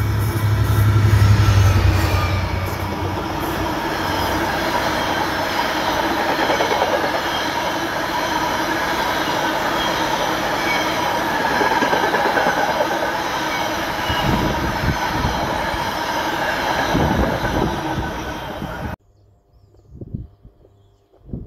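GB Railfreight Class 66 diesel locomotive passing close by, its engine loudest for the first couple of seconds. A long rake of empty container flat wagons follows, rumbling and clattering past with some high wheel squeal, until the sound cuts off abruptly near the end.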